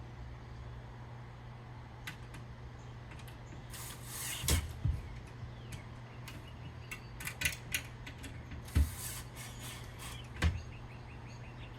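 Scattered clicks and knocks of a metal drawer slide and tools being handled and positioned against a door track, over a steady low hum.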